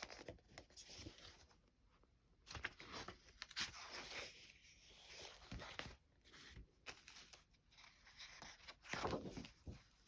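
Faint, scattered rustling and crackling of paper as vintage paper doll books and their pages are handled and turned.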